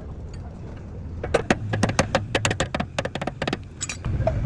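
A quick, irregular run of light taps and clicks from hand-tool work on a truck radiator, starting about a second and a half in, over a low steady hum.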